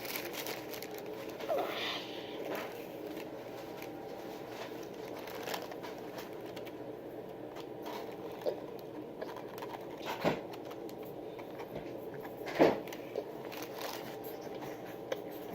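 Scattered small clicks and rustles of someone eating and handling food and a drink, over a steady room hum. One sharper knock comes near the end.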